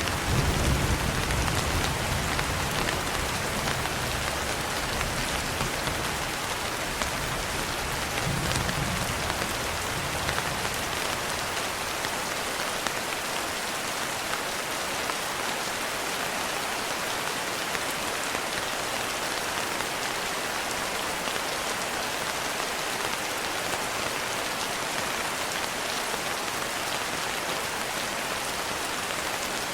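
Steady rain falling, an even hiss. A low rumble of thunder dies away over the first ten seconds or so.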